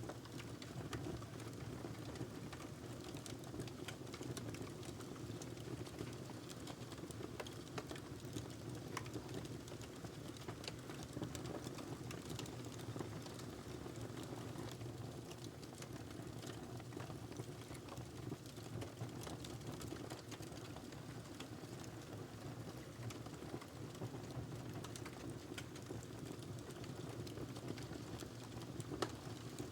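Wood fire burning in a fireplace: a steady low rush of flames with frequent small crackles and pops, one sharper pop near the end.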